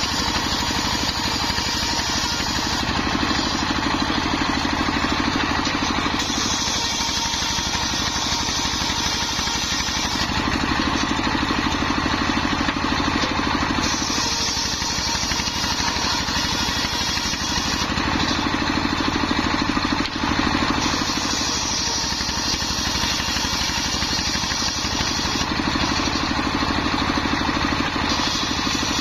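Homemade engine-driven circular saw running steadily while ripping waru wood into battens. A higher cutting hiss comes and goes every few seconds over the constant engine sound as the blade bites into the timber and runs free again.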